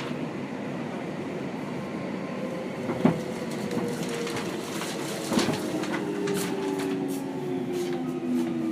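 Seibu 6000-series train running, heard from inside the car: rolling noise with two sharp clicks from the wheels over rail joints, then from about halfway through the Hitachi GTO-VVVF inverter's tones sliding slowly down in pitch as the train slows under electric braking.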